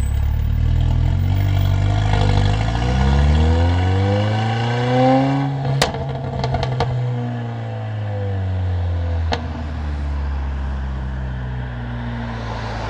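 Mercedes-AMG CLA45's turbocharged four-cylinder and loud exhaust on a pull: the revs climb steadily for a few seconds, then the driver lifts off with a quick string of sharp exhaust cracks and the revs fall away. One more single crack comes a few seconds later before the car settles into steady running.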